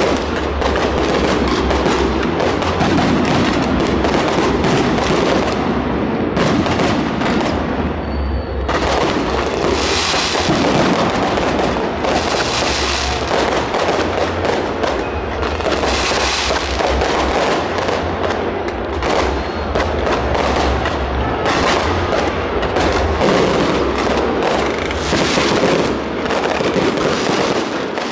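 Fireworks display going off without a break: a dense, rapid crackle of bursts layered over deep booms.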